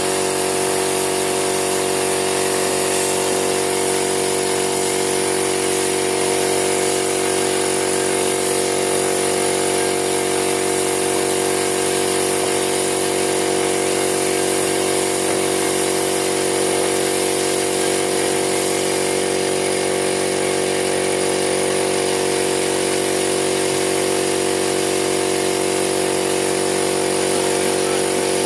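A power tool's electric motor running steadily at constant speed, an unbroken hum with a set of fixed pitches.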